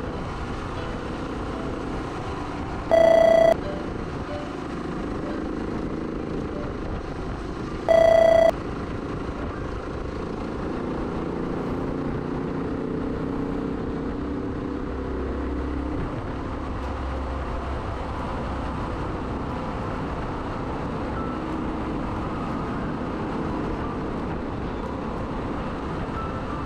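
Suzuki DR125S single-cylinder four-stroke motorcycle engine running at road speed, with steady wind and road noise. Two loud short beeps with a buzzy tone cut through it, a few seconds in and again about five seconds later.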